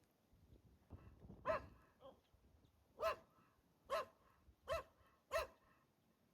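A dog barking: a run of short, single barks, about one a second.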